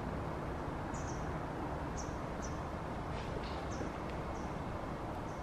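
Short, high bird chirps, about eight of them spaced irregularly, over a steady background hiss.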